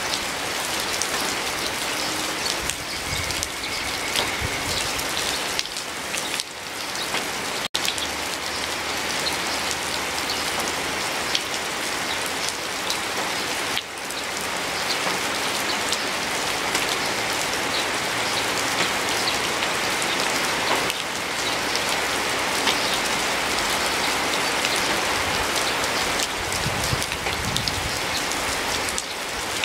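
Steady rain falling, an even dense patter of drops on leaves and surfaces, with a split-second dropout in the sound about eight seconds in.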